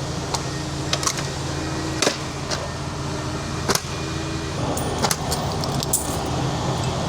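Coins clinking and clattering as they are cleared out of a jammed coin mechanism, the collection bucket below being overfull, over a steady low hum.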